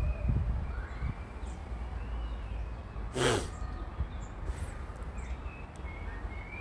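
Small birds chirping faintly in the background over a low rumble, with one short, loud, harsh sound about three seconds in.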